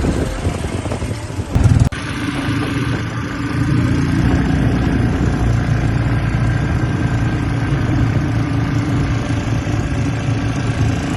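Quad bike engine running steadily, with a brief break about two seconds in.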